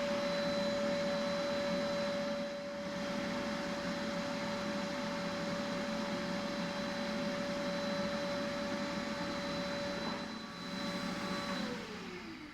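Vacuum cleaner motor running with a steady high whine. It is switched off near the end, and the pitch falls as the motor winds down.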